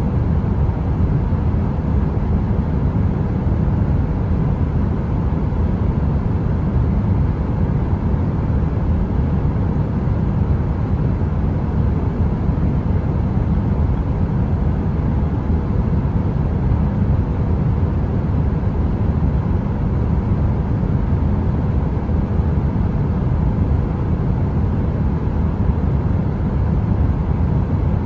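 Space-heater noise: a steady, deep rumbling hiss, heaviest in the bass, with no crackles or changes.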